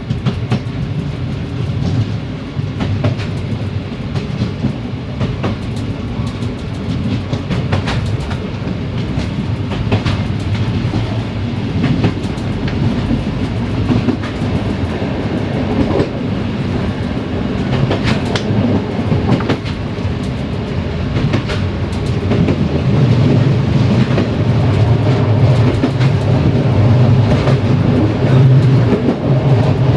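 Passenger train's coach wheels running over jointed track: a continuous rumble with irregular clicks and clacks from the rail joints, growing louder about three-quarters of the way through.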